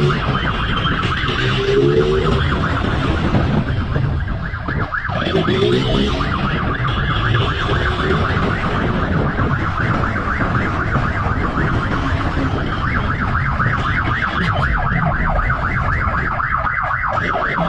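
Police siren wailing in a fast, rapidly repeating warble, with vehicle engine and road noise underneath.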